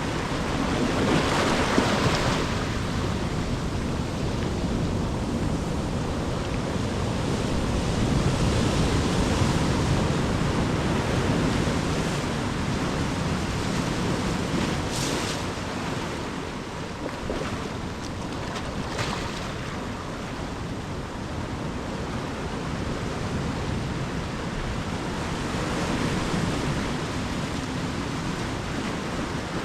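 Ocean surf breaking and washing up a beach, a steady rush that swells and eases in slow surges.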